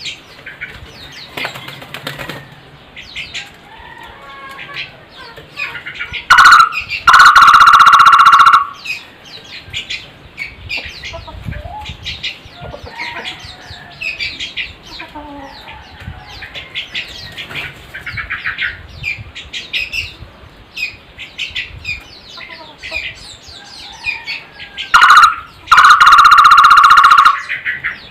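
Barbet calls: twice, a short note followed by a loud, pulsing trill held for about a second and a half, once about a quarter of the way in and again near the end. Rapid high chirping and ticking from small birds runs underneath throughout.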